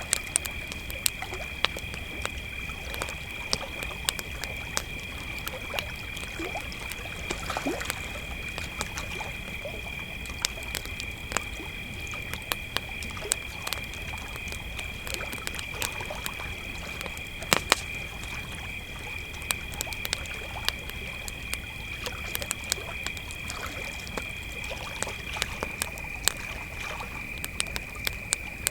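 Crickets trilling steadily at two different pitches, the higher one stopping near the end, over the irregular pops and crackles of a burning campfire.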